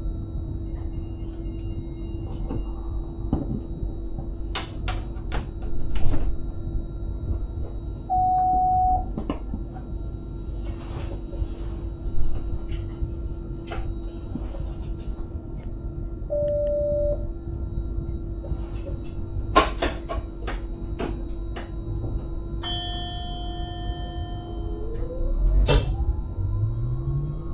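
Inside the cab of an electric Sprinter train: a steady running hum and rumble with scattered clicks and knocks, two short electronic beeps, and a rising whine near the end as the train picks up speed.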